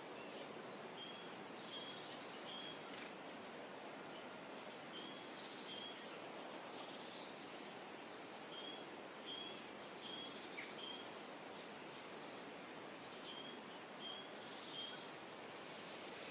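A songbird repeats short, high chirps on two alternating pitches, about two a second with brief pauses, and a few sharper chirps break in. Under them runs a steady outdoor background hiss.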